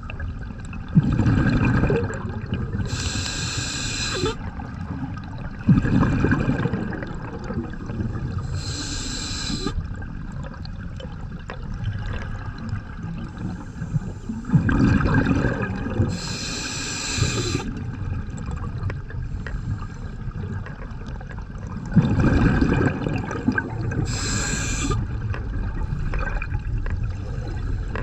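Scuba diver breathing through a regulator, heard underwater: slow alternation of bubbling exhalations and short hissing inhalations, about four breaths, over a steady wash of water noise.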